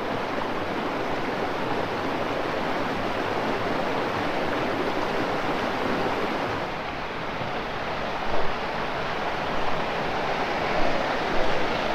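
Steady rush of flowing river water, with a few brief low thumps in the last few seconds.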